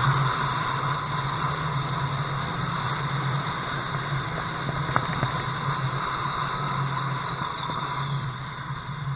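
Loud wind noise rushing over a windshield-mounted camera on a car at speed, with the car's engine running steadily underneath. A single sharp tap about five seconds in.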